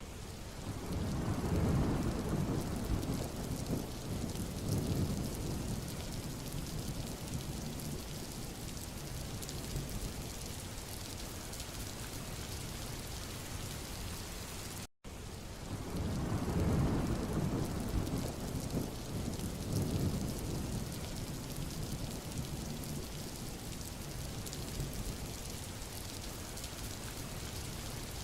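Steady rain falling on a road, an even hiss, with a low rumble of wind or distant thunder swelling about a second in and fading over several seconds. Halfway through the sound cuts out for an instant and the same stretch repeats, rumble and all.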